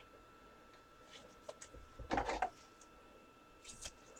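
Trading cards and their plastic holders being handled: a few soft clicks and a brief rustle about two seconds in, with a faint steady hum underneath.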